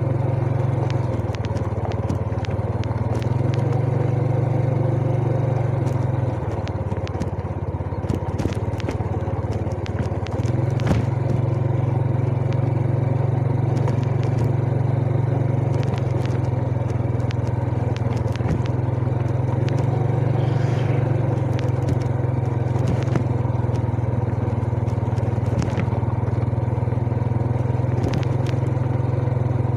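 Yamaha Jupiter Z underbone motorcycle's single-cylinder four-stroke engine running under way, its note rising and falling with throttle and gear changes. It eases off and goes quieter about six seconds in, then picks up again around ten seconds. Scattered clicks and rattles sound over it.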